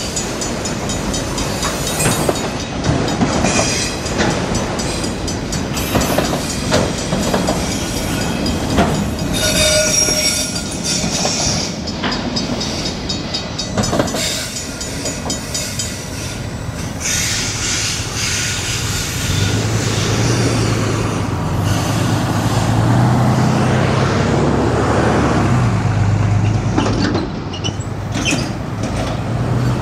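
Freight train of enclosed autorack cars rolling past, its wheels clicking over the rail joints with bursts of high-pitched wheel squeal. In the last third the train noise gives way to a steady low engine drone as a road truck crosses the tracks.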